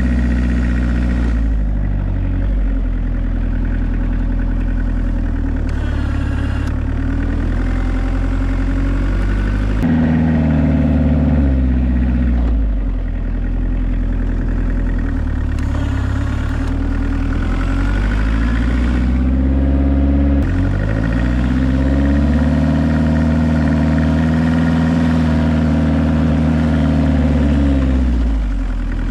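Diesel engine of a homemade 4x4 UTV running under load while plowing snow, its engine speed rising and falling several times, with sudden shifts about ten and twenty seconds in.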